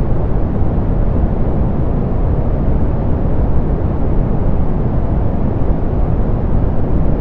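Steady, unchanging soft pink noise: an even hiss weighted toward the low end, with a deep rumble and little treble.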